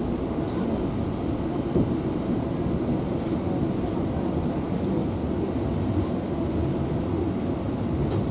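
Steady rumble of a passenger train's wheels running on the rails, heard from inside the carriage.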